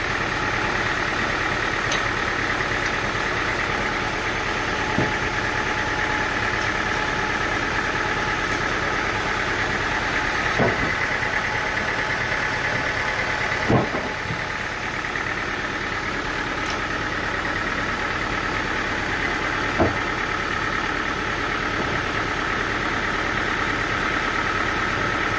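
Sawmill engine running steadily, with a few short sharp knocks: one about 5 seconds in, then around 11, 14 and 20 seconds.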